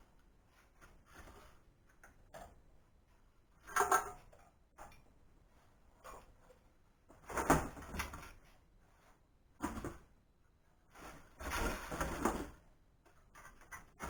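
Intermittent clunks and clatter of metal parts and tools being handled while a band saw is dismantled, four separate bursts with short quiet gaps between.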